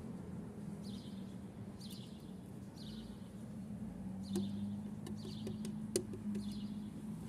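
A bird chirping over and over, short falling chirps about once a second, over a steady low hum. A few sharp clicks come in the second half.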